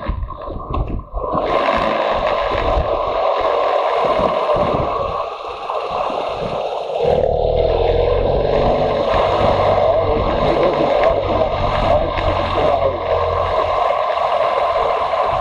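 Motorcycle engine running under way, with wind rushing over the microphone; it gets louder and deeper about halfway through.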